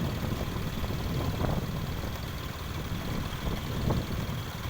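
Steady low rumble of a vehicle engine and road noise while on the move.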